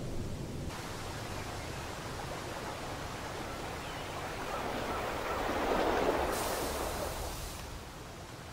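Rain ambience: a steady hiss that grows louder in a swell about five to seven seconds in, then fades.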